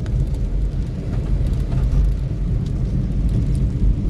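Steady low rumble of a car on the move, with faint ticks over it.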